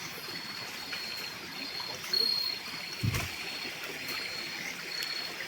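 Insects chirping in repeated high, even-pitched trills over a steady background hiss, with one low thump about three seconds in.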